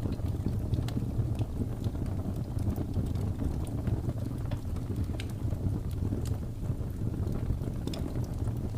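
Wood fire in a fireplace crackling, with small irregular pops and snaps scattered over a steady low rumble.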